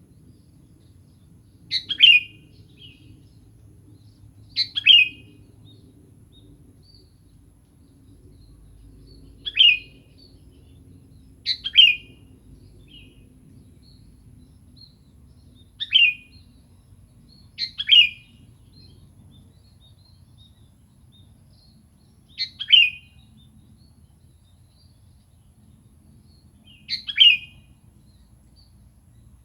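Sooty-headed bulbul (kutilang) calling: short, bright call notes that drop quickly in pitch, each with a quick lead-in note, repeated eight times at uneven intervals of a few seconds.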